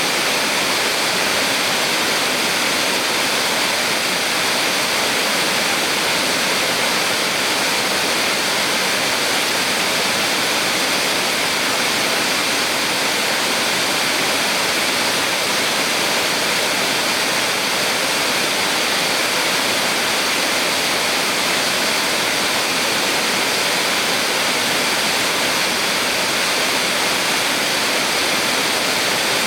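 Small waterfall on a mountain stream: water falling and rushing in a steady, even hiss with no change throughout.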